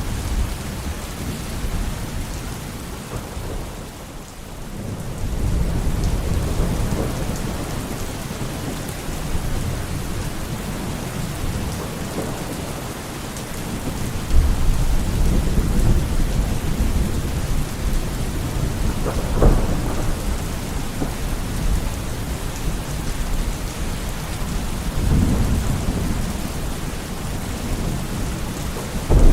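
Steady heavy rain with rolling thunder: low rumbles swell and fade through the rain, one setting in suddenly about halfway and a sharper crack a few seconds later.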